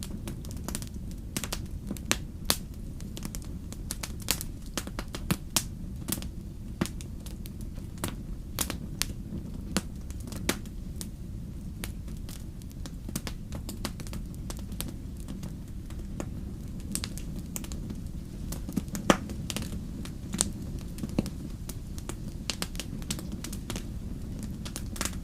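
Wood fire crackling in a fireplace, with frequent sharp pops scattered throughout, the loudest about 19 seconds in, over a steady low rumble.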